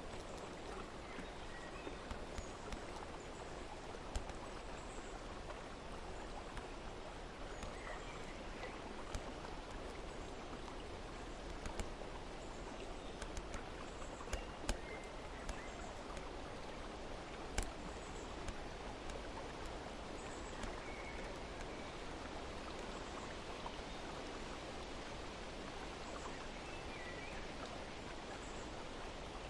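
Steady flowing-water ambience, with scattered sharp ticks and a few faint, short, high chirps.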